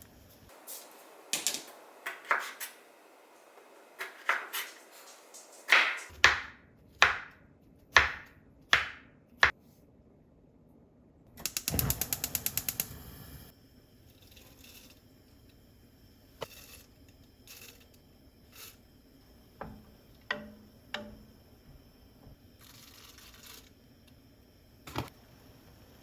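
A series of sharp clicks and knocks about half a second to a second apart. About eleven seconds in comes a quick run of a dozen or so rapid, ratchet-like clicks lasting a little over a second, then a few lighter scattered clicks.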